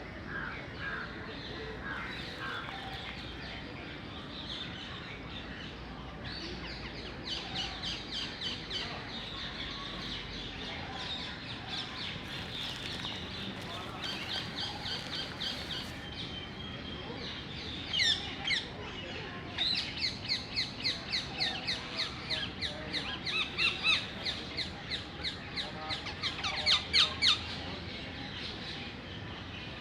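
Small birds chirping, with quick runs of short high notes that grow busier and louder in the second half.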